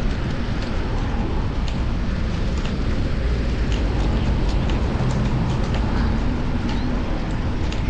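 Steady low rumble of riding a fixed-gear bicycle in city traffic: wind and road noise on a chest-mounted action camera, with scattered faint clicks.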